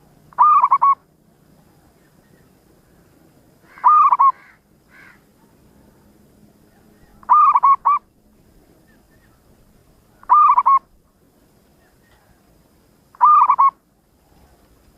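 Zebra dove (perkutut) cooing: five short calls, each a quick run of a few soft notes, repeated about every three seconds.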